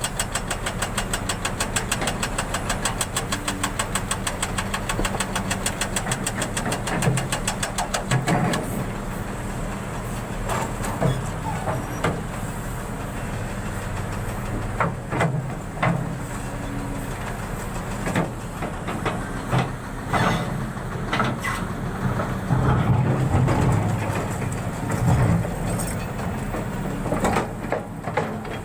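An engine running steadily with a rapid, even pulse for the first eight seconds or so, then a low hum with scattered clicks and knocks.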